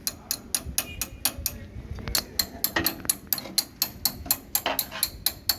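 Even, rapid ticking, about four ticks a second, like a clock.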